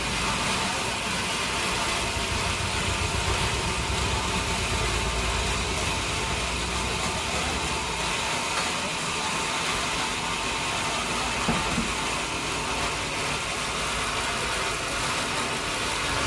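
Sawmill machinery running steadily, an engine-like drone with a low pulsing beat and a hiss over it.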